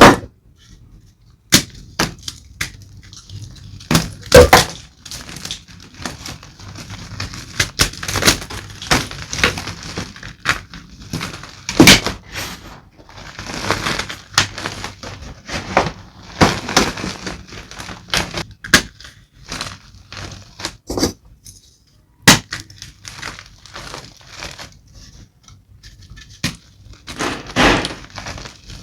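Gym chalk being crushed and crumbled, close up: a long run of crisp crunches and snaps with gritty crumbling between them. A few breaks stand out as sharper and louder, about 4 s, 12 s and 22 s in.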